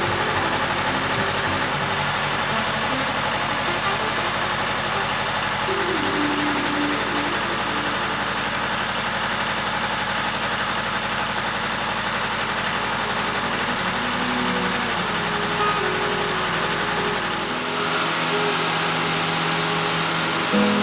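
An engine idling steadily; near the end its low rumble drops away.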